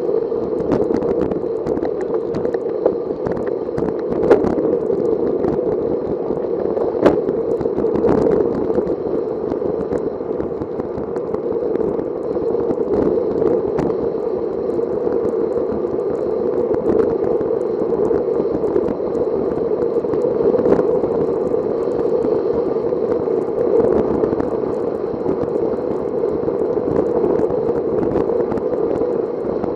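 Steady rushing noise from a bicycle ride, with scattered sharp clicks and rattles, the loudest about 4 and 7 seconds in.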